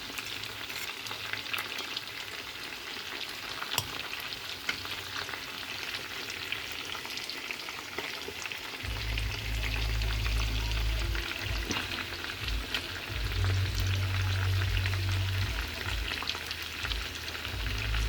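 Food frying in hot oil in a pot: a steady sizzle full of small crackles and pops. A low hum joins in about halfway through.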